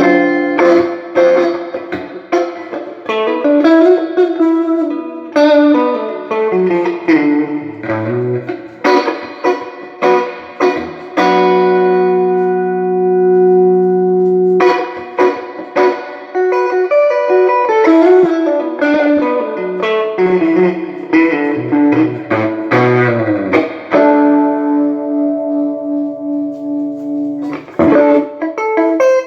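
Electric guitar played through a late-1980s Peavey Deuce VT tube guitar amplifier, working again after repair: picked single-note runs and chords, with one chord left ringing for about three seconds midway and another near the end.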